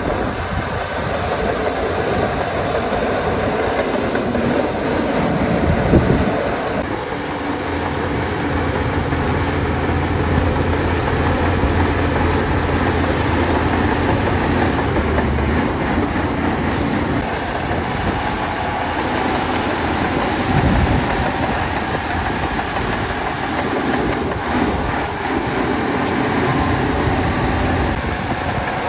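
Heavy earthmoving machinery working: a crawler bulldozer's diesel engine running under load with its steel tracks clanking, and a couple of brief thumps.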